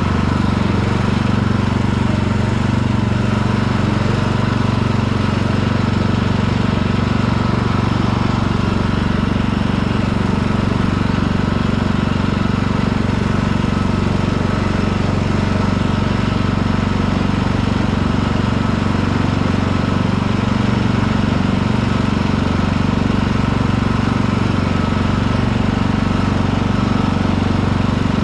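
Lawn tractor's engine running steadily under the rider, the machine driving along without the mower blades engaged.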